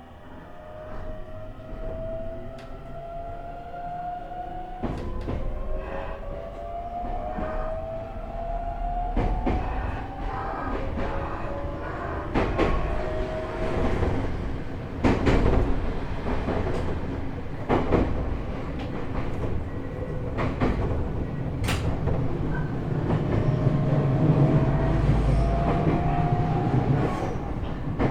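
JR East E127 series electric multiple unit (KuMoHa E127-11, Toyo Denki GTO-VVVF inverter) heard from inside the car while accelerating. Its inverter and traction-motor whine rises in pitch in several steps, with rail-joint clicks and a growing running rumble. This car is known for an abnormal extra tone a semitone above its usual minor-seventh gear whine.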